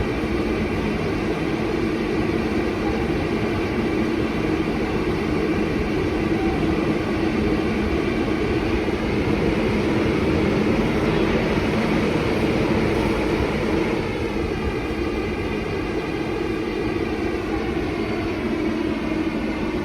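R142A subway train pulling out of the station: a steady rush of wheels and motors that swells around the middle and eases off near the end.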